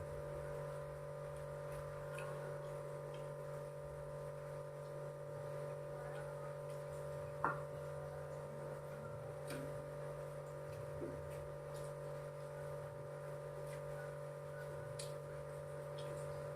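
A steady electrical hum made of several constant tones, with a few faint scattered clicks and one sharper tap about seven and a half seconds in.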